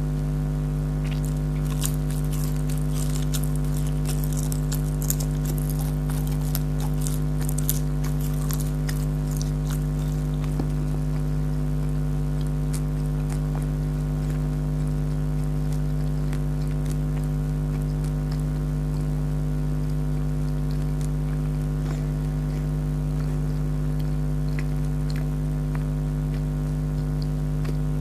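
Close-up chewing and crunching of crisp, syrupy jalebi: quick crackly bites and sticky mouth clicks, dense for the first ten seconds or so and sparser after. Under it all runs a loud, steady low hum made of several fixed tones.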